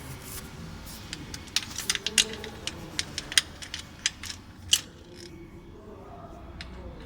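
Metal tools and parts clicking and clinking as they are handled: about a dozen sharp, irregular ticks over a few seconds, then quieter.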